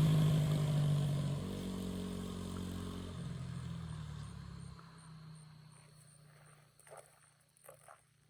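Motorcycle engine riding away and fading into the distance, its note shifting a couple of times as it goes. A few faint short sounds follow near the end.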